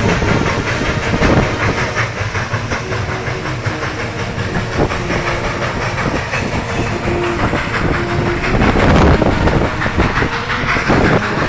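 Train moving along the rails, a steady rumble with repeated wheel clatter and hiss.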